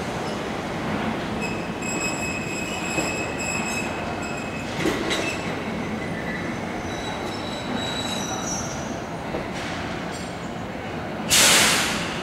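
Electric trains at a railway terminal: a steady rumble with thin, high-pitched squeals coming and going, and a sudden loud hiss about eleven seconds in that fades over a second.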